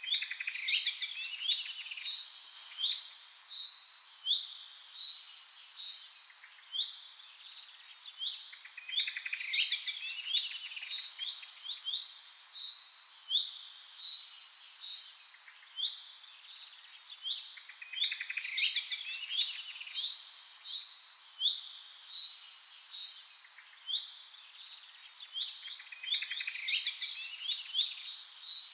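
Songbirds singing: overlapping high-pitched chirps, quick trills and rapid note series in bursts. The same stretch of song recurs about every eight to nine seconds, like a loop.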